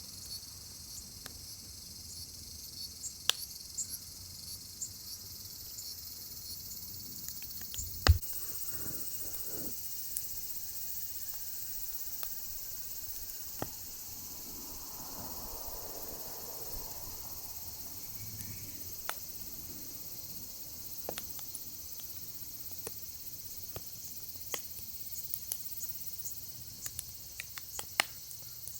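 Firewood burning in a fire pit, crackling with irregular sharp pops, one loud pop about eight seconds in. A steady high-pitched insect chorus runs underneath.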